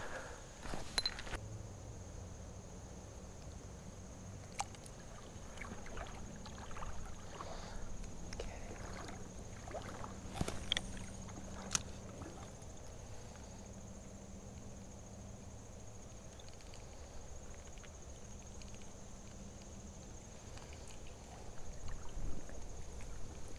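Creek water sloshing and swishing as an angler wades and fishes, with scattered rustles and a few sharp clicks. A faint steady high-pitched tone sits underneath.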